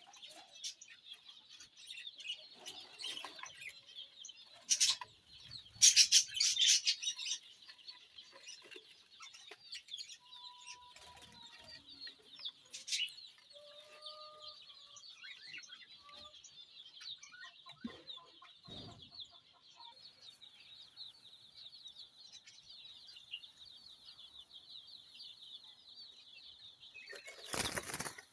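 A flock of lovebirds chattering constantly in an aviary. Several loud bursts of wing flapping or rustling come through, the loudest about six seconds in and another just before the end.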